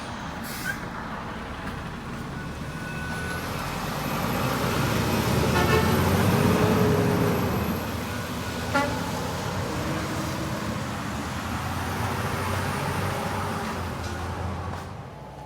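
A heavy truck driving past. Its engine rumble grows louder to a peak about six to seven seconds in, then fades, with a couple of short sharp clicks along the way.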